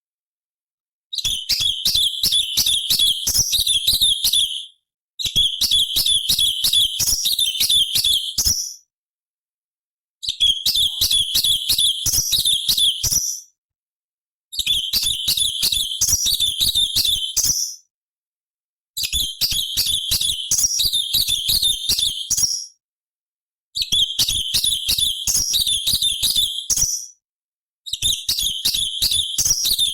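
A cucak cungkok leafbird singing in bursts of rapid, high twittering and chattering notes. Each burst lasts about three to four seconds, with a silent break of about a second between bursts.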